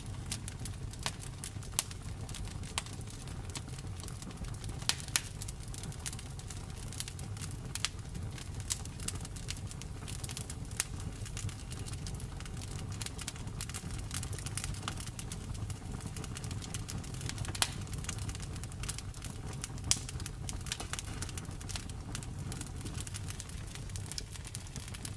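Wood fire burning, with a steady low rumble and irregular sharp crackles and pops, a few of them much louder than the rest.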